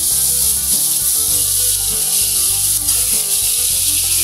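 Pieces of pork loin sizzling steadily in hot sunflower oil in a frying pan as they are turned with a fork.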